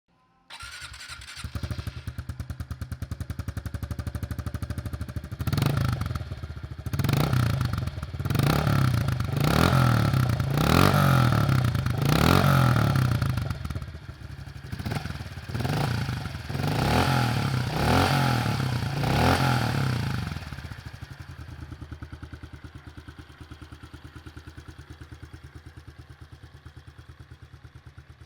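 2022 Honda CRF110F's small air-cooled single-cylinder four-stroke engine starting up about half a second in and idling. It is then blipped through about ten quick revs over some fifteen seconds before settling back to a steady idle.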